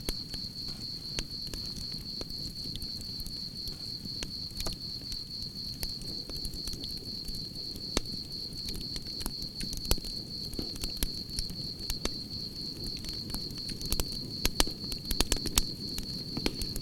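Campfire crackling and popping over a low steady rush of burning, with crickets keeping up a continuous high trill; the pops come more often near the end.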